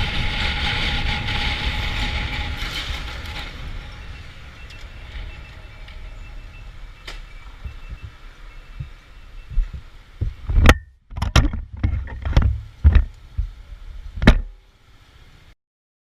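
A car running on the road, its engine and road noise loud at first and then fading. About ten seconds in comes a quick string of about eight loud bangs and thumps over some four seconds. The sound then cuts out abruptly.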